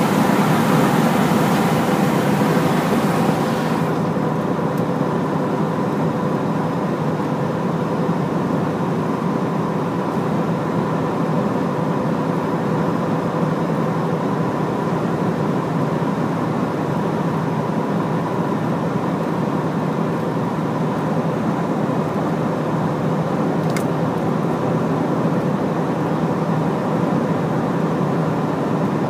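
Large Hino truck driving, its engine and road noise running steadily with a steady drone. A loud hiss of tyre and road noise drops away sharply about four seconds in, and there is one brief click near the end.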